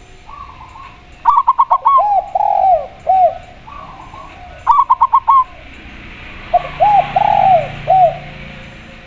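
Zebra dove and spotted dove cooing. Two loud phrases, each a quick run of short notes followed by several drawn-out rising-and-falling coos, with fainter coos from another dove in between.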